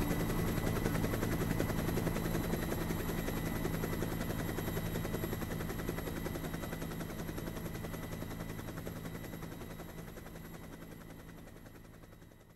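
Helicopter running: a rapid, steady beating of the rotor blades over a high, steady turbine whine. It fades out gradually toward the end.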